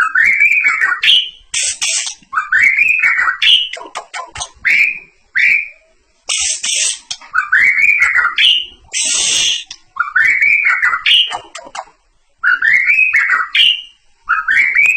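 White-rumped shama (Medan murai batu) singing loudly: a repeated arched whistle, rising then falling, about every second and a half, broken by three short harsh rasping bursts.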